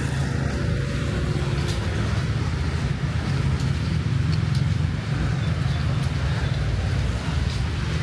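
Steady low rumble of road traffic, cars and motorbikes running past on a busy street.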